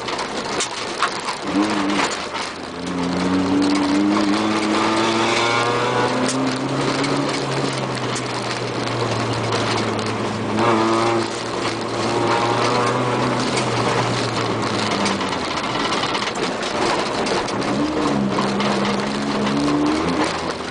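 Car engine heard from inside the cabin, pulling hard with its pitch climbing, then held steady for a long stretch, easing off about fifteen seconds in and picking up again near the end. Under it runs a steady rush of tyres on a loose dirt road, with scattered sharp clicks.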